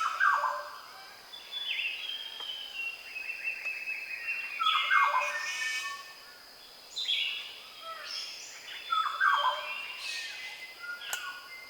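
Dawn chorus of New Guinea highland forest birds, birds of paradise among them: many overlapping whistles and chirps, with a loud descending call phrase repeating about every four seconds. A steady high whine sits underneath, and there is one sharp click near the end.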